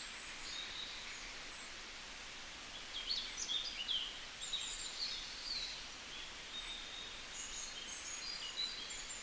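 Small birds chirping in short high calls and quick whistles over a faint steady outdoor hiss, busiest about three to five seconds in.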